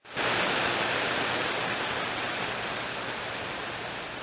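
CB radio receiver static: a steady hiss from the radio's speaker on an open channel between transmissions, slowly getting quieter.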